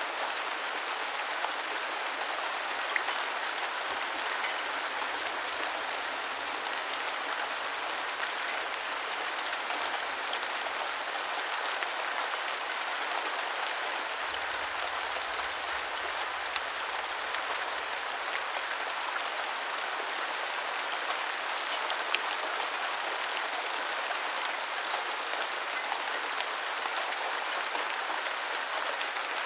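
Steady rain, an even hiss with scattered individual drops ticking on a surface.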